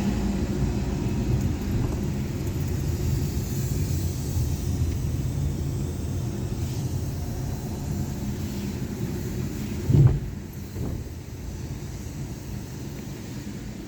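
Sonny's tunnel car wash running: a steady low rumble of water spray and wash equipment. There is one loud thump about ten seconds in, after which it is quieter.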